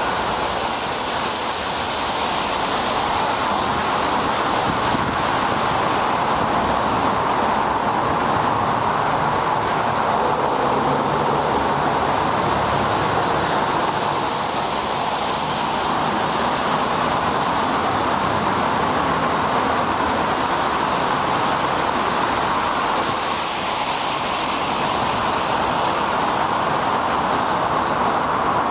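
Steady rushing noise of a bicycle ride on a wet road: wind over the microphone mixed with the hiss of tyres on wet pavement.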